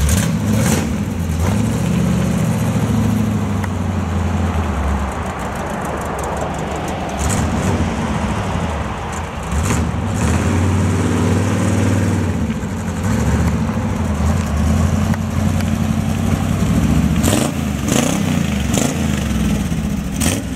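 1961 GMC truck's engine running, mostly steady, with its pitch rising and falling about halfway through as the revs change. Several sharp clicks sound over it, a few of them close together near the end.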